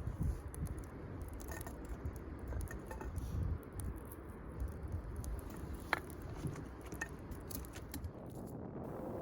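Wood campfire crackling: scattered sharp pops and ticks, one louder pop about six seconds in, over a low rumble.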